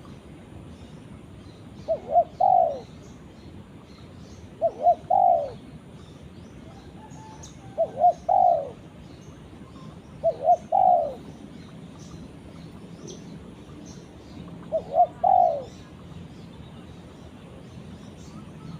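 Spotted dove cooing: five phrases a few seconds apart, each two short notes followed by a longer, falling coo. Faint chirping of small birds runs underneath.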